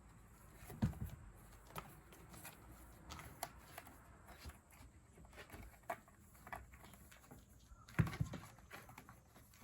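A kitten playing on the floor: scattered light taps and thumps of paws landing, with a louder thump about a second in and another near the end.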